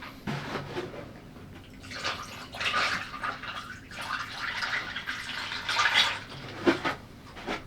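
A person chewing food close to the microphone, with wet mouth sounds coming in uneven bouts of a second or so.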